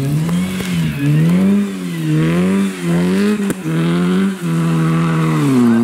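Rally car's engine revving hard, the revs rising and falling about once a second as the car is driven on grass off the road. One sharp click about three and a half seconds in.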